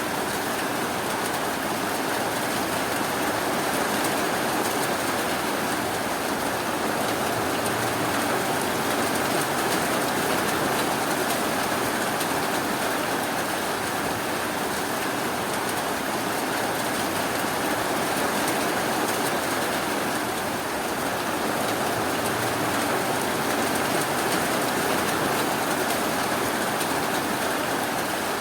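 Steady rainfall: an even, continuous hiss of rain with no breaks or thunder.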